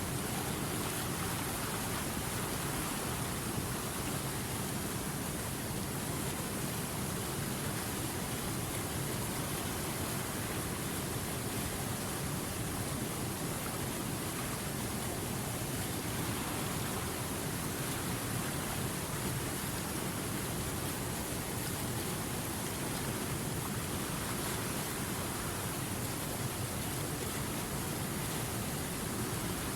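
River water rushing steadily over rapids, a continuous even hiss of flowing water with no breaks.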